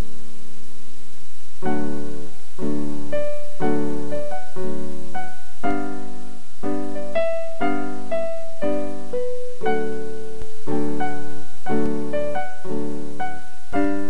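Background piano music: a gentle melody over repeated chords, struck about once a second.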